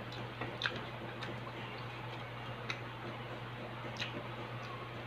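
Eating sounds from chewing chicken wings close to a clip-on microphone: a few sharp, irregular mouth clicks and smacks over a steady low hum.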